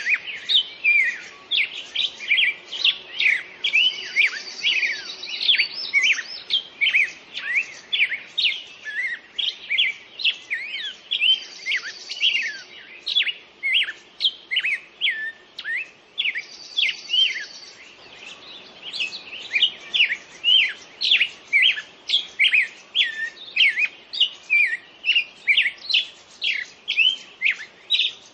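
Songbirds singing in a dense chorus of quick chirps and whistled slurs. A high, buzzy trill breaks in every few seconds.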